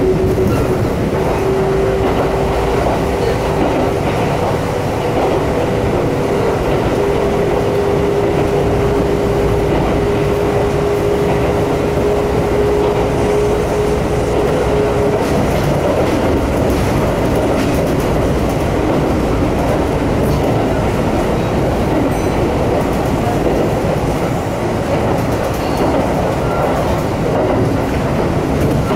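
Kintetsu Shigi Line train running uphill, heard from inside the car: a steady rumble with the clickety-clack of the wheels. A single steady whine that rises slightly in pitch sounds over it for about the first half, then stops.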